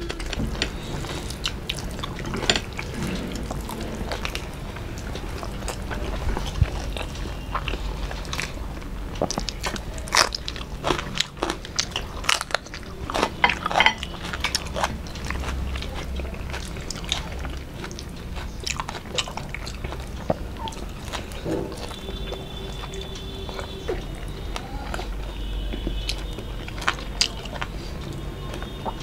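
Close-miked eating: irregular crunching, chewing and wet mouth clicks and smacks from two people eating fried fish and rice with curry by hand.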